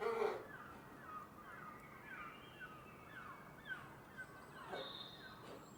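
The end of a donkey's bray at the very start, then a small bird calling over a faint outdoor background with a long run of short falling chirps, about two a second, and a few higher whistled notes.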